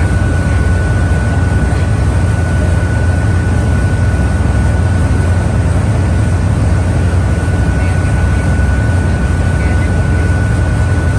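Boat engine running steadily under way, a loud, even low drone with a constant high whine over it.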